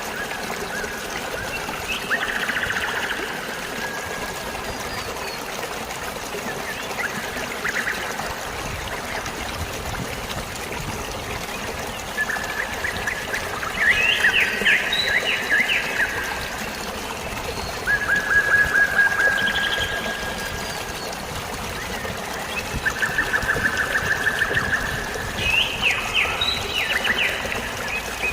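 Steady flow of water, like a stream or small waterfall, with birds chirping over it and several rapid trills, the clearest about halfway through and again near the end.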